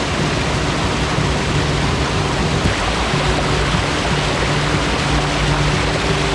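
Mountain stream water rushing in a steady, loud hiss. Background music with sustained low notes plays over it.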